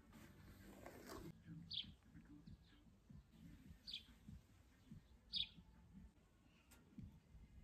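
A bird chirping faintly, three short calls spaced about two seconds apart, the last one the loudest. About a second in there is a brief rustle of a hairbrush stroke through long hair.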